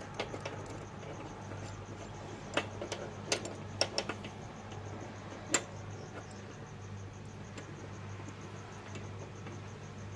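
A handful of sharp, irregular metal clicks and taps from tools being worked on a gear puller fixed to a part that will not come off, over a steady low hum.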